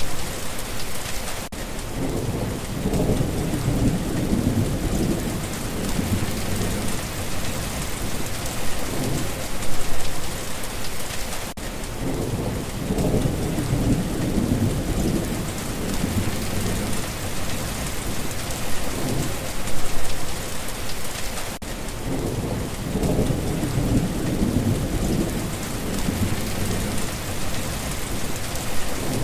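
Steady rain pouring down, with low thunder rumbling in three times, about every ten seconds.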